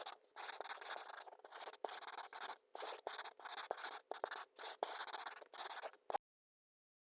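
Sheet of paper being folded and rubbed along its creases by hand: a run of faint, quick scratchy strokes that stops abruptly about six seconds in.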